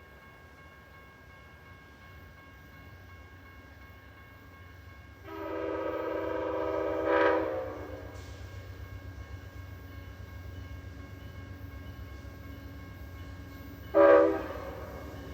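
Amtrak diesel locomotive's air horn sounding a chord of several tones: one long blast of about two and a half seconds that swells at its end, then a short blast about seven seconds later, over the low rumble of the approaching train.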